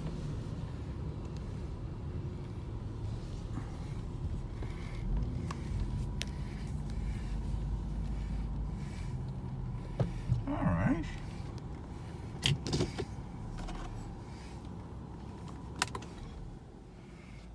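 Car driving slowly forward, heard from inside the cabin: a steady low rumble, with a few short clicks and knocks about ten and thirteen seconds in.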